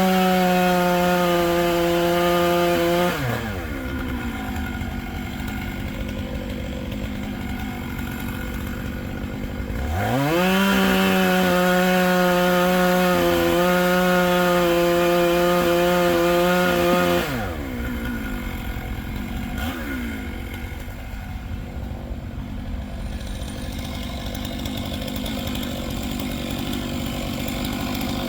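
Chainsaw running at full throttle for about three seconds, dropping back to a low idle, then revving up again about ten seconds in and holding high for about seven seconds before falling back to idle.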